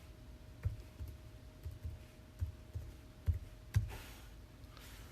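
Scattered light clicks and soft taps, several a second apart, with a brief rustle near the end, over a faint steady hum.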